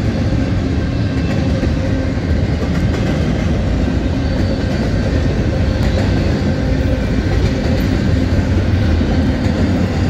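Union Pacific intermodal freight train rolling past, a steady, unbroken rumble of its cars on the rails.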